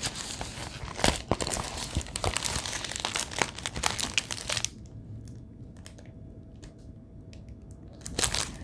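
Plastic packaging of a diamond painting kit crinkling and rustling as it is handled, for about four and a half seconds; then it drops to a few light taps and clicks before the crinkling starts again near the end.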